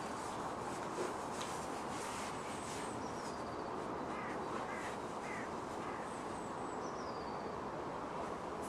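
Birds calling over a steady city background hum: thin high chirps that fall in pitch, and a run of four short calls about halfway through.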